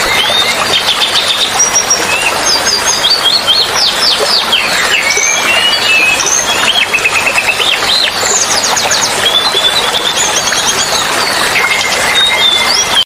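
Several small songbirds chirping, whistling and trilling in quick overlapping phrases over a steady rush of running water.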